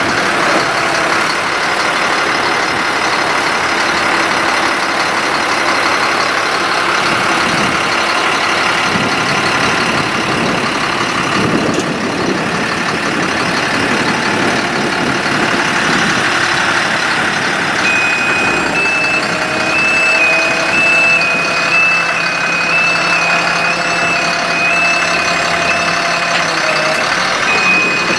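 Ford F-750 bucket truck's diesel engine running steadily with the PTO engaged to drive the boom hydraulics. About two-thirds of the way in, an electronic alarm starts a steady, rapid beeping and keeps going.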